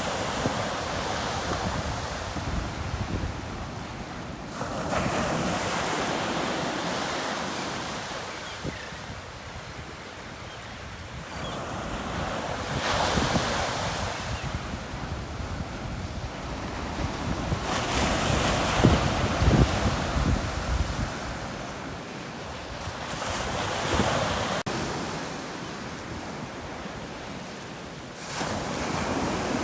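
Waves breaking on a beach one after another, the surf swelling and fading every few seconds, loudest about two-thirds of the way through. Wind buffets the microphone with a low rumble.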